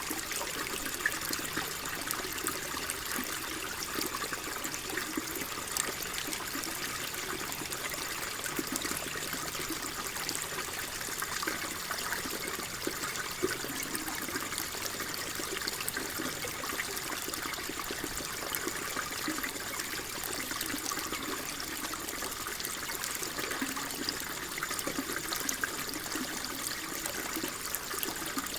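Water flowing and trickling steadily, with small splashes and drips.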